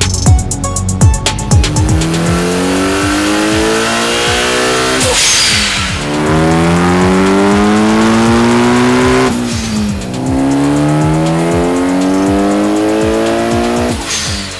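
Turbocharged 4G63 four-cylinder of a Mitsubishi Evo IX (a 2.2 L build) breathing through a Tomei full exhaust, accelerating hard through the gears. The note climbs steadily in pitch, then drops sharply at two upshifts, about a third and two-thirds of the way in, with a brief burst of hiss at the first shift.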